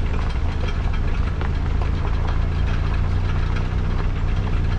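Car driving along a gravel track, its engine running steadily with a low rumble. Tyres on loose gravel add a scatter of small clicks and rattles.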